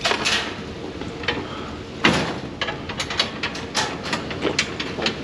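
Metal knocks and clanks from things being handled in a pickup truck bed: one heavier hit about two seconds in, then a run of quick clicks and taps.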